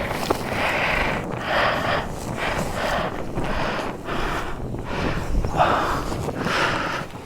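A person breathing hard and fast, about one heavy breath a second, each breath a short rushing puff.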